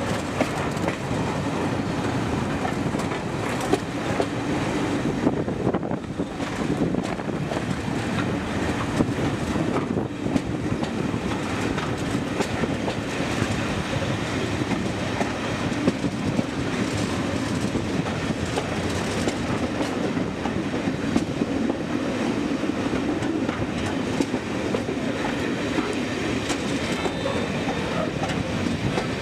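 Heritage passenger train running along the track, heard from aboard a carriage: a steady running noise of the wheels on the rails with many small clicks.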